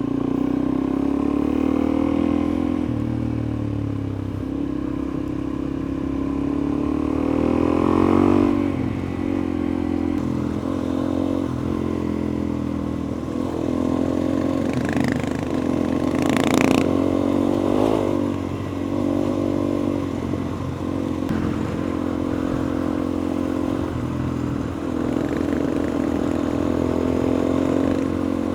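Suzuki DR-Z400E single-cylinder four-stroke trail bike engine under way, revving up and down through the gears. Engine pitch climbs to a peak about eight seconds in and rises and falls again around sixteen to eighteen seconds in, with a short sharp clatter about sixteen seconds in.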